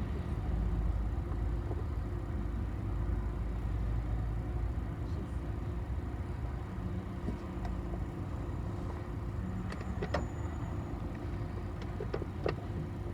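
City bus heard from inside the cabin while riding: a steady low engine and road rumble, with a few short sharp clicks or rattles about ten seconds in and again near the end.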